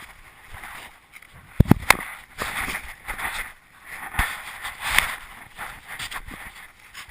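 1/8 scale RC monster truck running over rough ground: irregular rushing tyre and chassis noise with sharp knocks as it bounces, the loudest about a second and a half in and another near four seconds.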